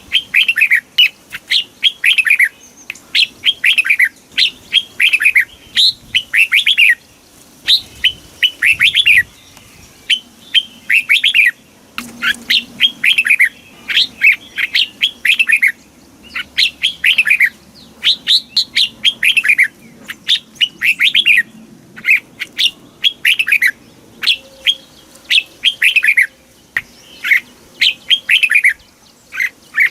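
Red-whiskered bulbul singing: short, bright phrases of quick downward-sweeping whistled notes, repeated about once a second with brief pauses between them. This is the bulbul song that keepers play to caged birds to stir them up or teach them to sing.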